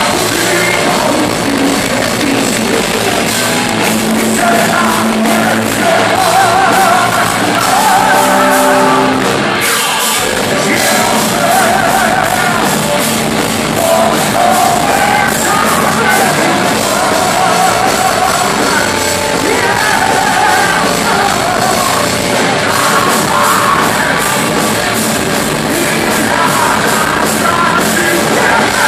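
Live heavy metal band playing loud, with a male lead singer over distorted guitars and drums, echoing in a concert hall. The band drops out for an instant about ten seconds in.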